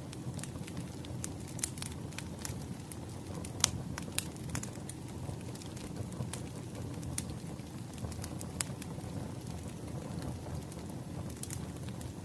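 Wood fire crackling: irregular sharp pops and snaps over a steady low rumble of burning, with the loudest pops about three and a half and four seconds in.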